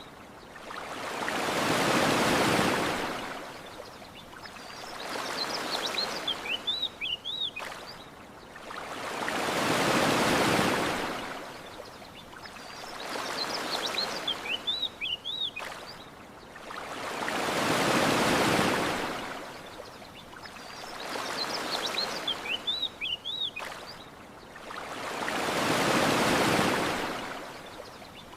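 Gentle ocean waves washing onto a shore, a swell rising and falling about every eight seconds with smaller ones between. A short phrase of high bird chirps recurs between the swells.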